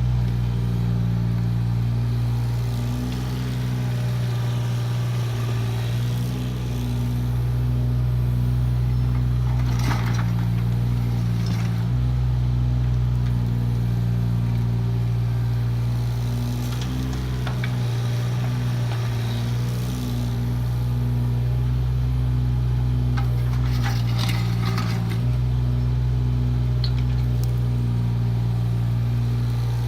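Kubota KX018 mini excavator's three-cylinder diesel running steadily, its note dipping and recovering every few seconds as the hydraulics take load. Brief scraping bursts, about three times, as the bucket works the soil.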